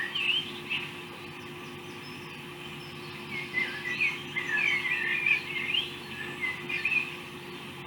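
Small birds chirping in the background in quick, warbling phrases, a short burst at the start and a longer run in the middle, over a steady low hum.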